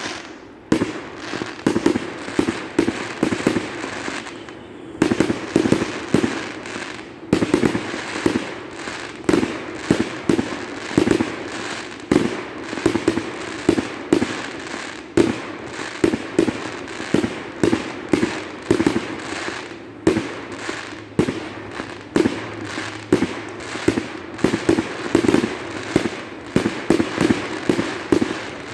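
Aerial fireworks bursting in a steady barrage of booms, about two a second.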